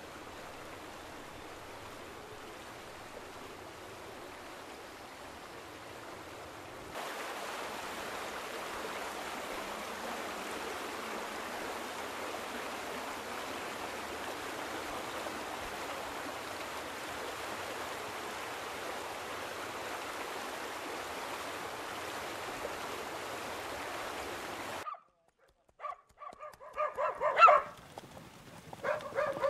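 Steady rushing outdoor noise that gets louder about seven seconds in and cuts off abruptly near the end. Then a dog barks several times, louder than anything before it.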